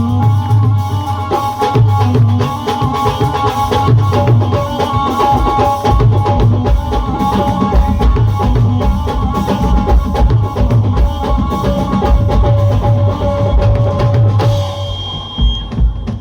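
Live devotional band playing an instrumental passage with no singing: a heavy drum beat with a pounding bass drum under held keyboard notes. Near the end the higher sounds fall away and the band thins out.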